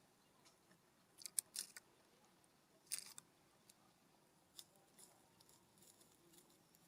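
Birds pecking and cracking seed on a ground feeder close to the microphone: sharp clicks and crunches in a quick cluster about a second in, another about three seconds in, and scattered fainter taps after.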